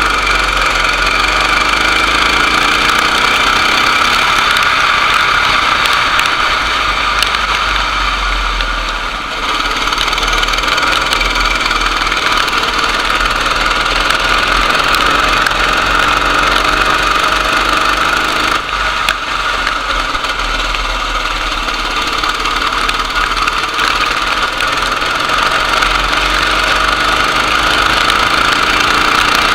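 Racing kart engine running continuously with a steady high whine, dipping briefly about nine seconds in and again a little before nineteen seconds.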